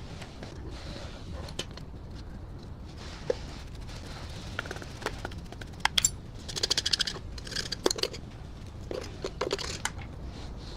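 Hand work on metal parts: scattered clicks, taps and scraping over a low steady hum, with a quick run of ticks about six to seven seconds in and another burst near eight to nine and a half seconds.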